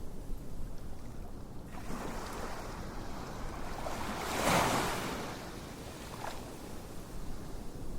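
Ocean waves washing on a shore, one wave swelling to a peak about halfway through and then fading.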